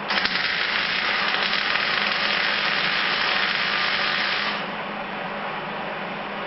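MIG welder running a bead on sheet steel: a steady crackling hiss for about four and a half seconds that starts and cuts off sharply.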